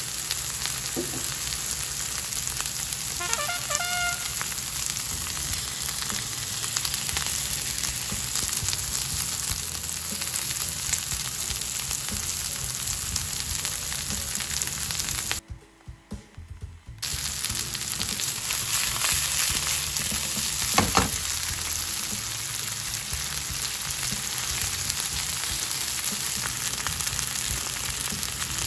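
Konnyaku pieces sizzling steadily as they fry in oil in a frying pan. The sizzle cuts out briefly about halfway through.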